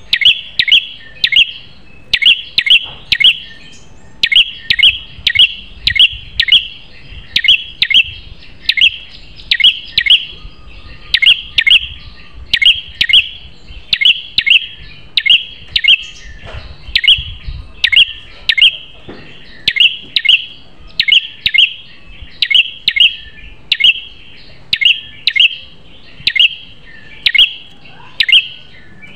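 Prinia (prenjak kepala merah) calling: sharp, high chirps in quick clusters of three or four notes, repeated over and over at a fast, even pace.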